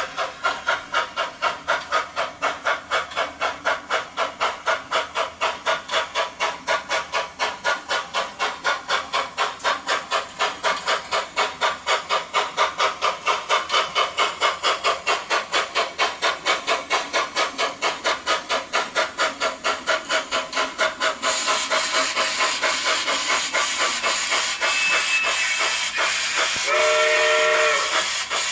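Model steam locomotive's sound decoder playing a steady run of rapid, even exhaust chuffs as the locomotive runs. About two-thirds of the way through a steam hiss takes over, and near the end a short whistle of several tones sounds.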